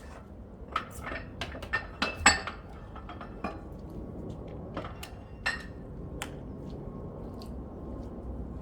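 Metal barbell weight plates clinking and clanking as they are loaded onto the bar. There is a quick run of sharp, ringing clanks in the first couple of seconds, then a few scattered single clanks.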